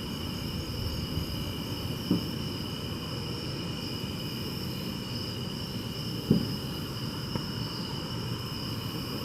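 Steady chorus of night insects shrilling at two even high pitches, with two brief dull knocks, about two seconds and about six seconds in.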